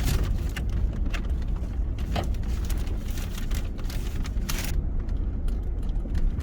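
Car driving along, a steady low road and engine rumble with scattered short knocks and rattles.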